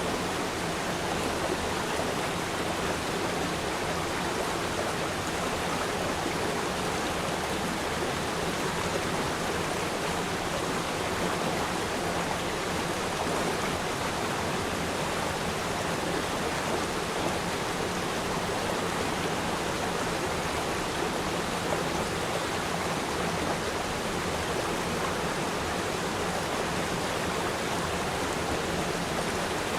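River stream flowing over rocks: a steady rushing and burbling of water that does not change.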